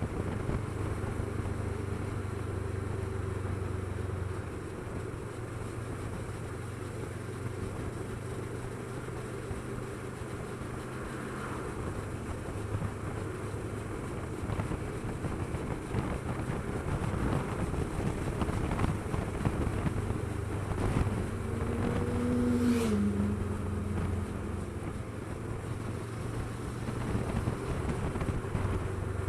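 Motorcycle engine running at a steady pitch under wind noise buffeting the microphone while riding. About 22 seconds in, a brief tone rises and then drops.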